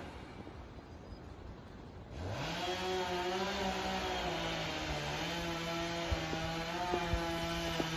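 Chainsaw engine, quiet for the first two seconds, then rising in pitch and running on at a steady speed.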